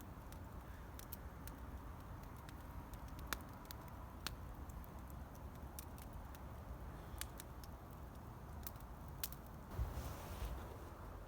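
Wind rumbling on the microphone, with scattered small clicks and taps and a brief louder rustle about ten seconds in.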